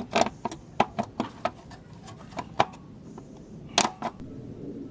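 Irregular sharp clicks and knocks of hand tools and engine parts being handled, about a dozen in all, the loudest about four seconds in.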